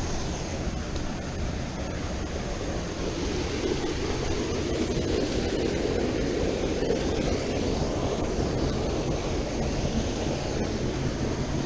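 Steady rushing of flowing river water, mixed with wind noise on the microphone, growing a little louder around the middle.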